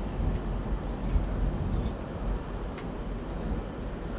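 Steady low rumble of vehicle engines and traffic at a truck stop.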